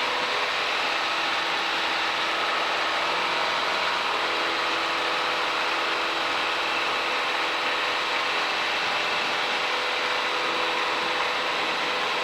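Piper Cherokee's piston engine and propeller running steadily at climb power, heard inside the cockpit as an even drone with several steady tones.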